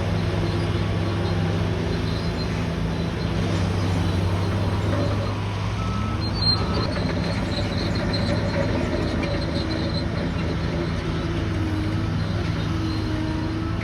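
Bulldozer's diesel engine running steadily under work, with squeals that come and go and one sharp click about six and a half seconds in.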